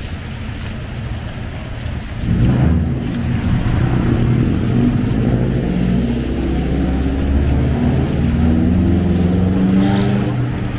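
A motor vehicle's engine running close by, loud from about two seconds in, its pitch shifting slightly as it goes.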